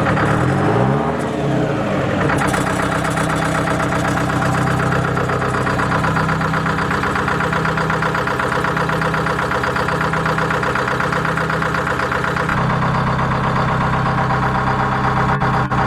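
Detroit Diesel 4-53T turbocharged two-stroke four-cylinder diesel running: revved up and down twice in the first two seconds, then settling to a steady idle whose tone changes a few seconds before the end. It is a good-running engine.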